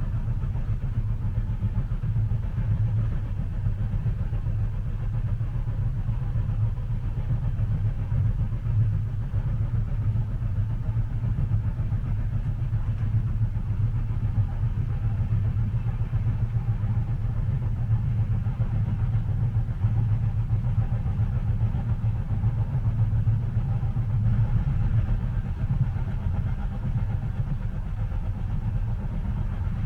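Moving train heard from inside a passenger car: a steady low rumble with a fainter hiss above it, and no distinct wheel clicks.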